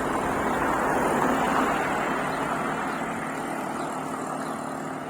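A motor vehicle passing on the road: its tyre and engine noise swells to its loudest about a second and a half in, then fades away.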